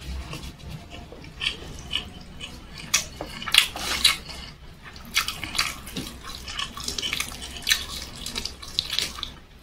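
Close-miked wet chewing and lip smacks of a person eating fried chicken and rice by hand: an irregular string of short, wet clicks and smacks, the loudest about three and a half seconds in.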